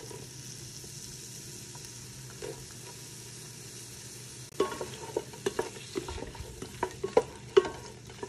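Diced onion and garlic frying in melted butter in a stainless steel pot, with a steady sizzle. About halfway through, a wooden spoon starts stirring, adding irregular scrapes and knocks against the pot.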